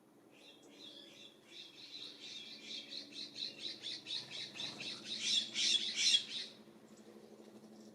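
A bird calling a long series of rapid, harsh repeated notes, about five a second, growing louder and stopping about a second before the end.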